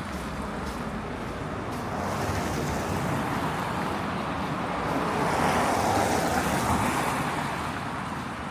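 A car passing on a snow-covered road, its tyre noise swelling to a peak about six seconds in and then fading, over a steady background of city traffic.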